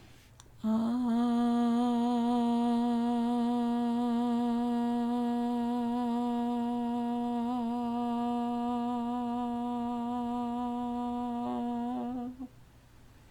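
A single voice chanting one long, steady 'ah' on one breath, held at an even pitch for about eleven seconds and then cut off. It is the 'ah' sound of pranayama sound breathing, used for the root chakra.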